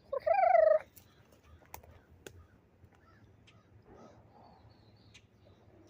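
A bird calls once near the start, a single call about half a second long, followed by a few faint clicks.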